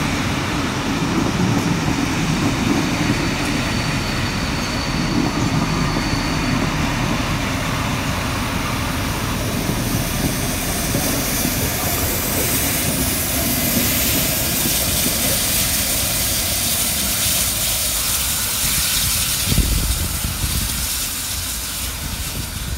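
Train running: a steady low rumble of wheels on track, with a hiss that grows louder in the second half and a single thump near the end.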